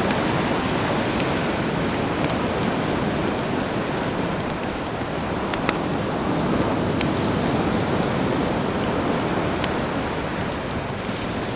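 Campfire crackling with sparse sharp pops over the steady wash of sea waves.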